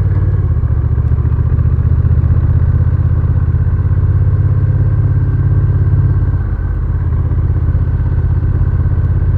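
Honda Rebel 1100's parallel-twin engine running steadily under way, with a brief dip in level about six and a half seconds in.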